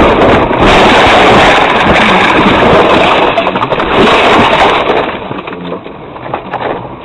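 Car crash sound effect: a long, very loud din of crunching and breaking impacts, full of clattering knocks, that dies away after about five seconds into scattered settling debris.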